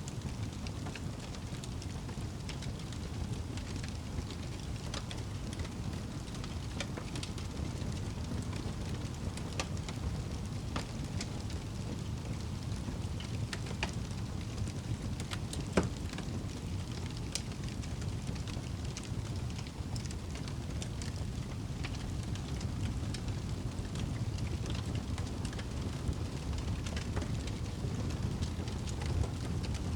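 Wood fire burning in a fireplace: a steady low rumble of flames with scattered small crackles and pops, one louder pop about halfway through.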